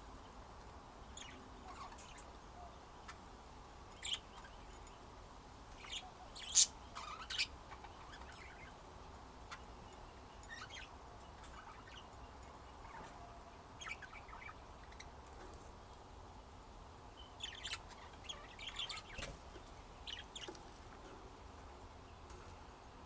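Pet budgerigars chirping in short, scattered high-pitched calls. The loudest chirp comes about six and a half seconds in, and there is a busier run of chirps about three-quarters of the way through.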